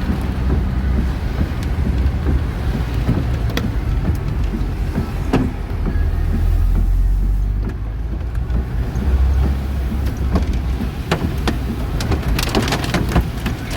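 Petrol car being driven, with a steady low engine and road drone that swells and eases. Scattered light clicks and taps run over it and grow denser near the end.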